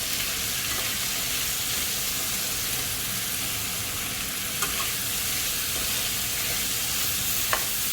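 Chicken pieces, carrots and green beans sizzling steadily in hot oil in a frying pan, with a couple of light knocks from stirring.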